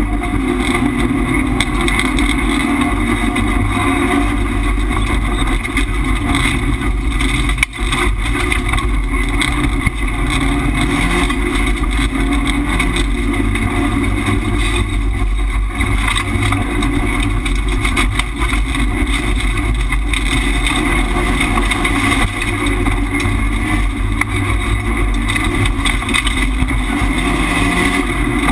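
Subaru Impreza rallycross car's turbocharged flat-four engine running hard under race load, heard from inside the stripped cabin. The revs rise and fall as it accelerates and shifts, over steady tyre and road noise.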